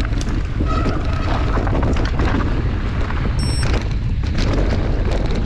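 Wind buffeting the action camera's microphone in a steady low rumble, with constant clattering and rattling from riding over a rough trail.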